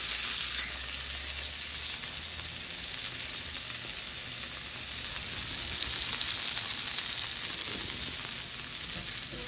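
Tuna steaks searing in hot vegetable oil in a frying pan over high heat, a steady sizzling hiss.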